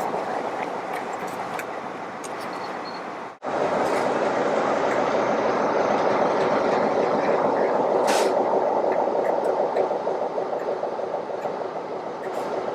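Railway train running with a steady rumble. The sound cuts out abruptly about three seconds in and comes back louder, and there is a short sharp hiss about eight seconds in.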